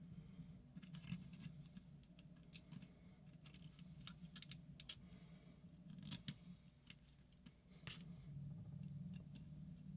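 Faint, scattered clicks and taps of small metal tools and parts being handled, over a low steady hum.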